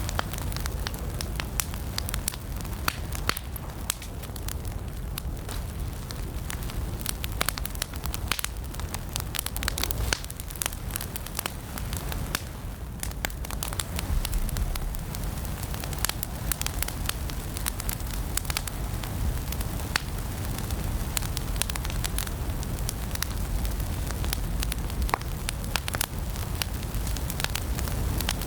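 Fire burning in a fireplace, crackling steadily with many sharp pops and snaps over a low, even rumble of flames.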